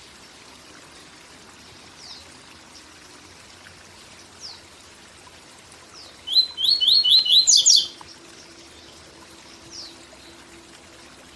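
Papa-capim (seedeater) singing one 'tui tui zel zel' phrase about six seconds in: a quick run of about six rising whistled notes, then a few higher notes. A steady waterfall rush runs underneath, with a few faint single chirps in the gaps.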